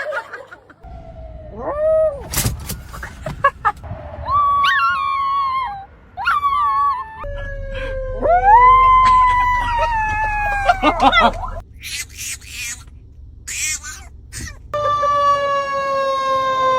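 Dogs howling and whining in a string of short clips: drawn-out calls that rise, hold and sag in pitch, each cut off abruptly. Near the end comes a long, steady, slowly falling tone, siren-like.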